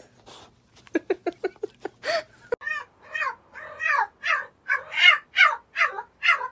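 A cat meowing over and over in quick succession, about three short calls a second, each falling in pitch. These follow a brief rapid run of short chirps about a second in.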